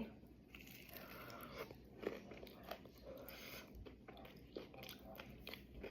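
Faint chewing with small irregular crunches and clicks: a person eating a mouthful of catfish and cabbage.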